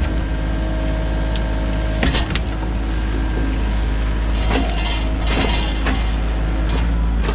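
Sany mini excavator's diesel engine running steadily under work, with a few sharp knocks or cracks about two seconds in and again in the second half.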